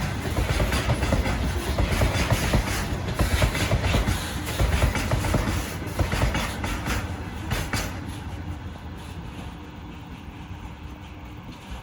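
Freight train passing, its wheels clattering over the rail joints in quick knocks. The clatter dies away about eight seconds in, leaving a fainter rumble.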